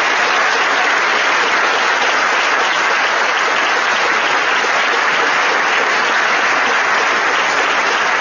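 A large audience applauding, a steady dense clapping that holds at one level throughout.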